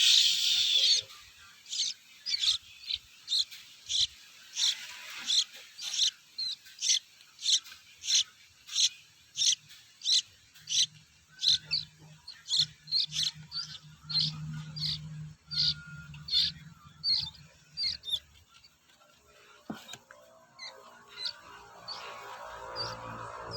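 Young songbird chirping repeatedly, short high calls about two a second, while being hand-fed: a chick's begging calls. It opens with a brief harsh squawk, and the chirps thin out near the end.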